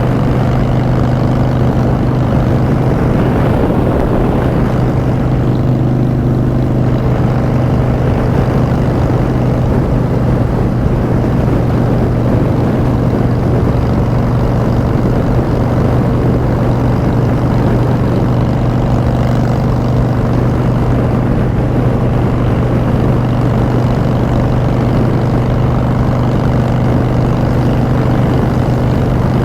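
Harley-Davidson Street Bob's V-twin running through Vance & Hines Short Shots exhaust, holding steady engine speed while cruising, with no revving or shifting.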